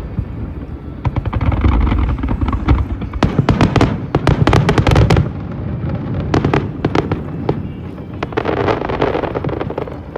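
Aerial fireworks bursting in quick succession: deep booms under dense volleys of sharp cracks and crackle, heaviest about three to five seconds in.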